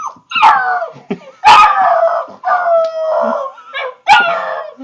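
Malamute puppy howling in three drawn-out, wavering calls, the middle one the longest: the vocal "talking" malamutes are known for.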